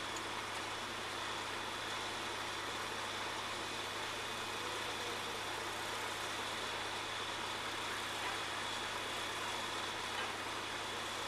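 Heavy truck engine idling steadily, a constant low rumble under an even wash of noise with a faint steady high whine.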